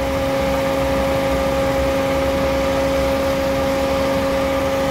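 Suzuki Alto VX's 660cc three-cylinder engine idling with the A/C compressor engaged and the radiator fan running: a steady, even hum. The compressor is running quietly, with the idle settled after the A/C was wired through the ECU.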